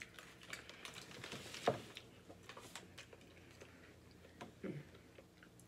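Faint close-up chewing and wet mouth sounds from people eating a seafood boil by hand, with small clicks and smacks. Two brief, slightly louder mouth sounds come about two seconds in and near the end.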